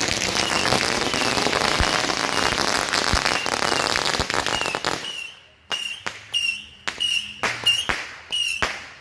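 Fireworks going off: a dense, rapid crackle of many small reports for about five seconds, then separate sharp bangs about two a second, each paired with a short high whistle.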